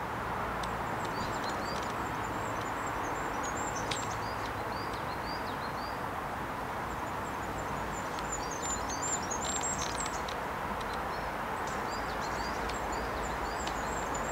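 Small birds chirping and twittering in short runs of quick high notes over a steady background noise.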